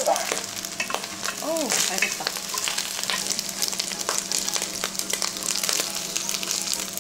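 Chicken feet sizzling and crackling in the hot pan of an electric stirring multicooker, with the scrape and clack of chopsticks stirring them. A steady low hum runs underneath.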